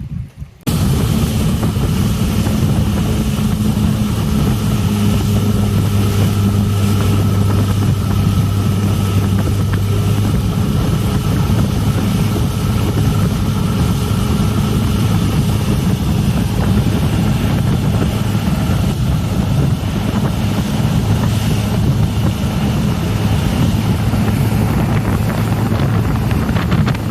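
Four-stroke fuel-injected outboard on a Yamaha FR23 boat running steadily under way, its engine drone mixed with rushing water and wind buffeting the microphone. The sound comes in abruptly about a second in.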